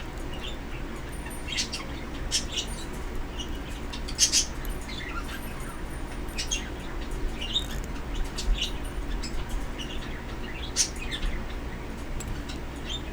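Pet birds chirping: short, scattered chirps a second or so apart, over a steady low hum.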